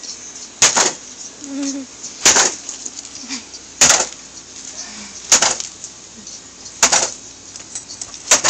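Six sharp knocks on something hard, evenly spaced about a second and a half apart, each ringing briefly.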